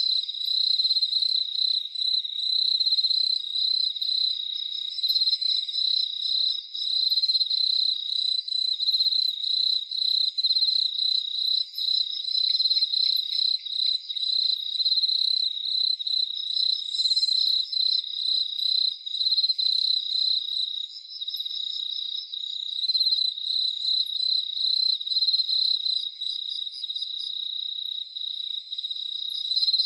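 Crickets chirping in a dense, continuous chorus: high-pitched pulsing trills that overlap without a break.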